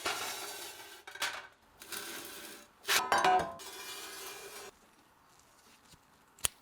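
Small metal parts clinking and scraping as they are handled, in several bursts over about five seconds, the loudest about three seconds in, then one sharp click near the end.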